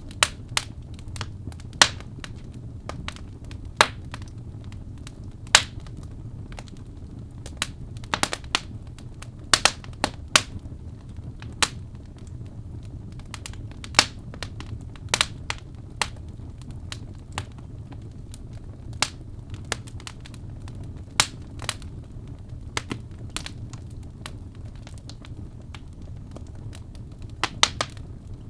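Fire in a fireplace crackling, with irregular sharp pops, some in quick clusters, over a low steady rumble.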